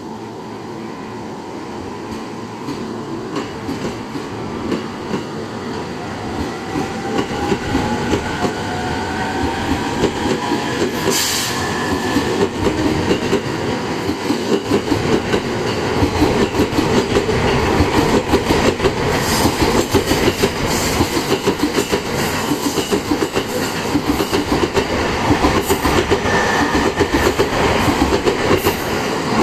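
E231 series 1000 electric train pulling out and picking up speed: the motors' whine rises in pitch, and the wheels clatter over the rail joints louder and faster as the cars go by.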